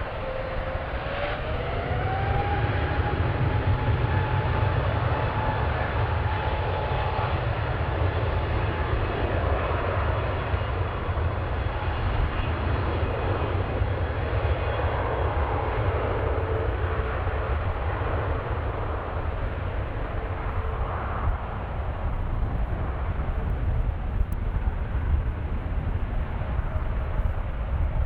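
Aircraft engines running with a steady low rumble; about a second in, an engine whine rises in pitch and then holds for several seconds.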